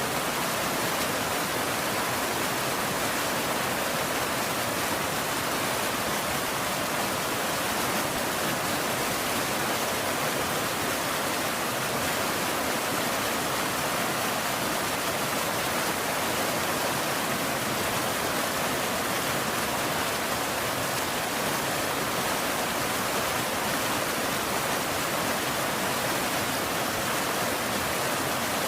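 Steady rain, an even hiss that does not change, with no thunder or single drops standing out.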